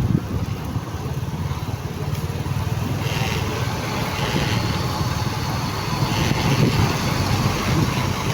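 Motorcycle engine running steadily while riding, with road traffic noise around it.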